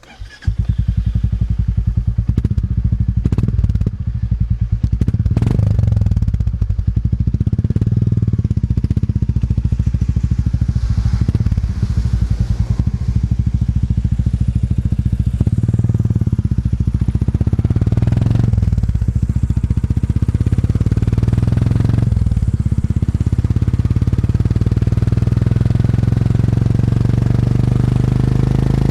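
Classic motorcycle engine starting up and then running steadily with a low, even thumping beat.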